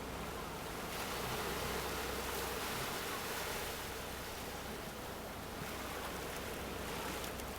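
Sea waves washing onto a shore: a steady rushing hiss that swells about a second in, holds for a few seconds, then eases.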